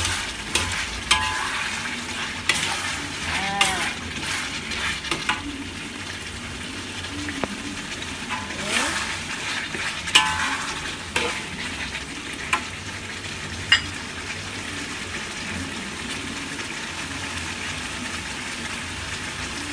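Chicken frying in chili paste in a wok, a steady sizzle, with a metal spatula scraping and clacking against the wok as it is stirred. The scraping and clacks come thick in the first dozen seconds and thin out near the end, leaving mostly the sizzle.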